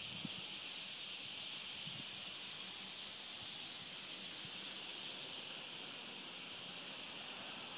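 Dense, continuous chatter of a large roosting flock of common starlings, heard as an even high hiss with no single call standing out.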